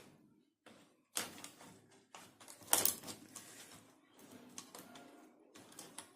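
Scattered clicks and knocks of plastic laptop parts being handled and fitted as the keyboard goes onto the reassembled laptop, the loudest knock a little under halfway through.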